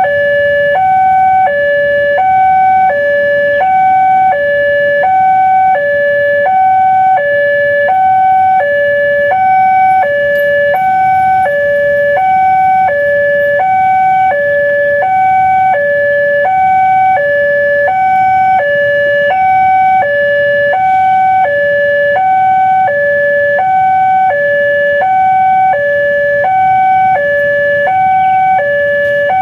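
Railway level-crossing warning alarm sounding its two-tone signal, a higher and a lower tone alternating about every half second without a break: the warning that a train is approaching and the barriers are closed. A low rumble runs underneath.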